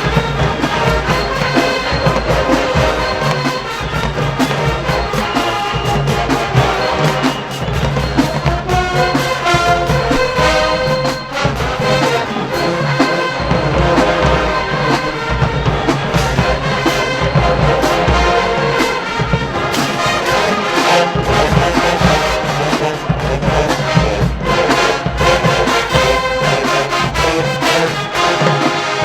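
HBCU show-style marching band playing loudly and continuously, with the brass to the fore: trumpets and trombones.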